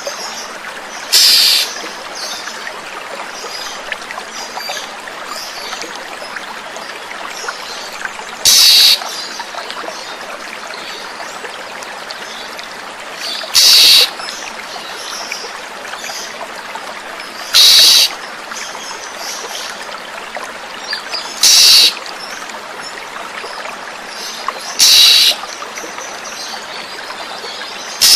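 Water running steadily, with faint bird chirps behind it. Seven times, every few seconds, a short loud harsh call cuts in, the lure call of an oriental magpie-robin (kacer).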